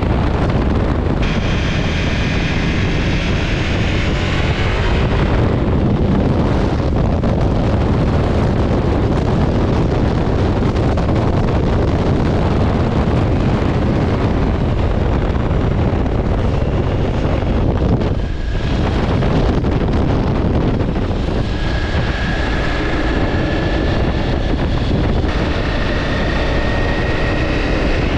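Ducati Multistrada V4 S motorcycle under way: wind rushing over the microphone over the running engine, with a brief dip in the sound about two-thirds of the way in.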